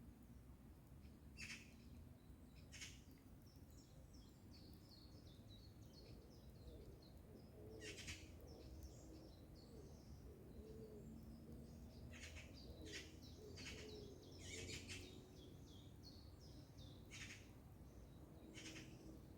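Small songbirds twittering on and off, broken every few seconds by short, harsh, rasping calls of Eurasian magpies, which come more closely together about two-thirds of the way through.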